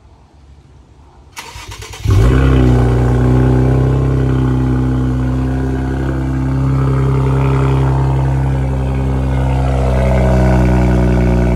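Cold start of a 2019 Infiniti Q50 Red Sport's twin-turbo V6 through a straight-piped exhaust (muffler and resonator delete, lower downpipes): a brief crank, the engine catches about two seconds in with a short flare of revs, then settles into a loud, steady fast idle.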